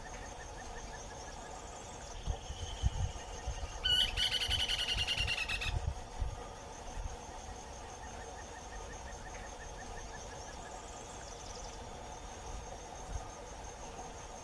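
Short-crested flycatcher giving a quick rolling trill of rapid notes lasting about two seconds, about four seconds in, over a steady chorus of insects. A few low bumps come just before the call.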